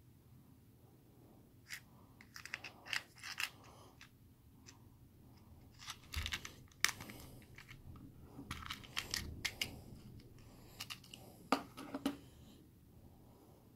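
Small packaging being handled: scattered clicks, taps and short rustles in several clusters, the sound of a small box being opened and its contents moved.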